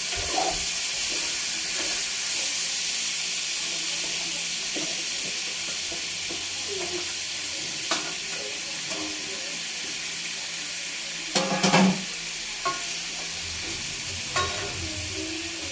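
Chicken and sweet potato sizzling in a frying pan while being stirred, with a steady hiss and scattered scrapes and knocks of the utensil on the pan. A louder clatter comes about two-thirds of the way through.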